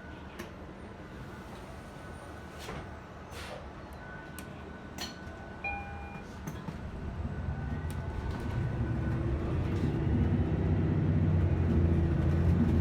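Vehicle running: a steady low rumble with a faint high tone and a few light clicks, growing louder through the second half.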